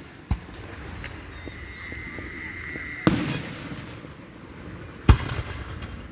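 Aerial fireworks bursting: three sharp booms, about half a second in, three seconds in and five seconds in, the last the loudest, each trailing off in a rumbling echo. There are small crackles between the booms and a thin steady high whistle just before the second one.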